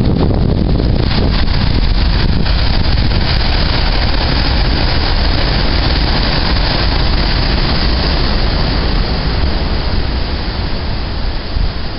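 Storm wind blowing hard across the microphone, with the noise of heavy surf beneath it: a loud, steady rush that rumbles unevenly at the low end.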